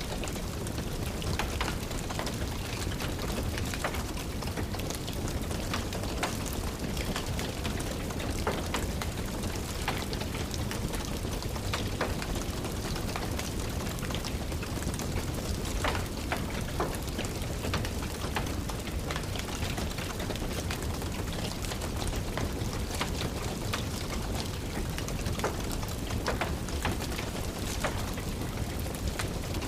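Steady rain with a low rumble, mixed with frequent sharp crackles and pops of a wood fire burning in a fireplace.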